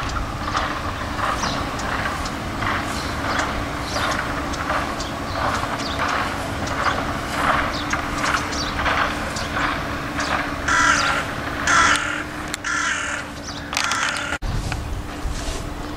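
Birds calling over and over, several short calls a second, with a few louder calls near the end, over a steady low hum.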